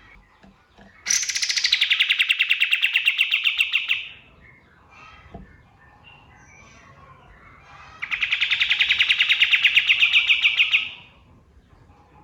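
A kapas tembak songbird singing two long, fast trills about four seconds apart. Each trill is a dense run of rapid repeated notes that starts higher and settles lower, and lasts about three seconds. Faint bird chirps fill the gaps.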